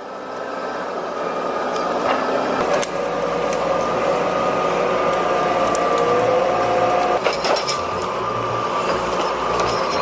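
A heavy machine running steadily with a whining tone, with a few scattered clinks and knocks.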